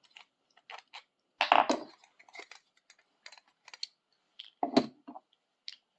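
Camera tripod parts being handled and fitted together: scattered clicks and clacks, with two louder knocks about one and a half and nearly five seconds in.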